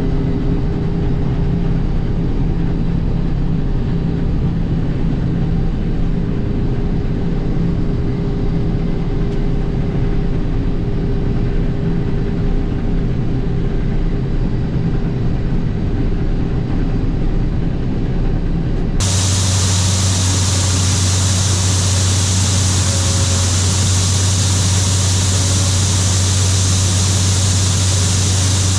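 International Harvester 1440 combine running steadily while harvesting soybeans. About two-thirds of the way through the sound changes abruptly to a steadier running sound with a strong low hum and much more hiss.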